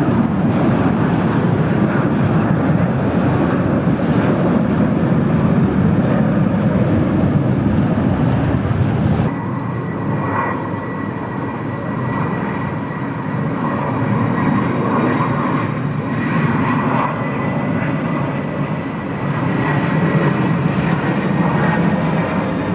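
Aircraft engines running loud at close range, a dense low rumble. About nine seconds in the sound changes abruptly, and a steady high whine runs over a slightly quieter rumble.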